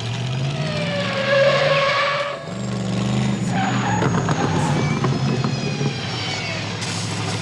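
Film sound effects of a car chase: a car engine revving up, with tyres squealing high over it.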